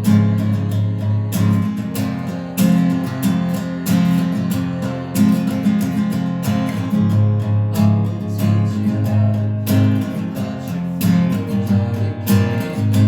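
Acoustic guitar music: strummed chords played at a steady pace.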